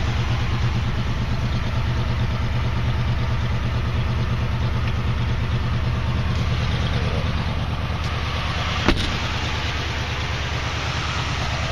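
1979 Jeep CJ-5's AMC 304 V8 idling steadily through aftermarket dual exhaust, with a single sharp knock about nine seconds in.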